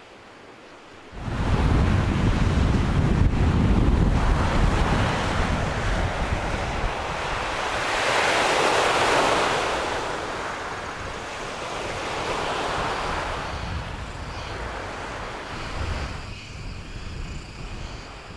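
Ocean surf washing in, with wind rumbling on the microphone. The sound cuts in suddenly about a second in, swells to its loudest around the middle as a wave comes in, and eases off toward the end.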